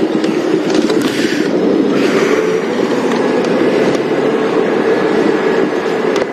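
Safari game-drive vehicle's engine running steadily as it drives.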